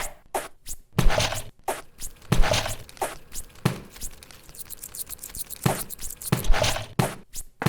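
A series of about ten thumps and knocks at uneven intervals, each with a short noisy rush after it, with a quieter pause in the middle.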